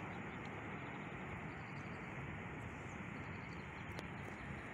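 Steady, even rumble of a distant electric locomotive, X4EC-054, hauling a mixed freight train toward the line-side position, with faint bird chirps above it.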